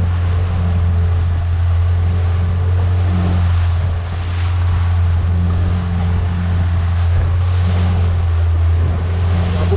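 Boat engine running steadily with an even low hum, under the noise of wind on the microphone and the sea.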